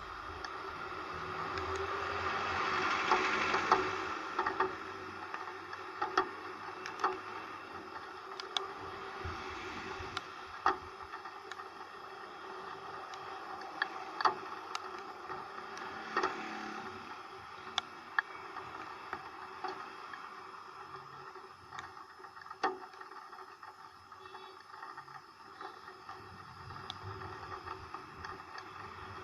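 Rain and wet-road hiss during a ride in the rain, with irregular sharp taps of raindrops hitting the camera. The hiss swells for the first few seconds, then settles.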